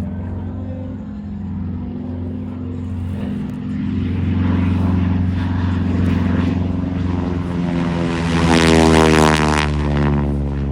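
Airplane making a low pass overhead, its engine drone building up and loudest about nine seconds in, then dropping in pitch as it goes by.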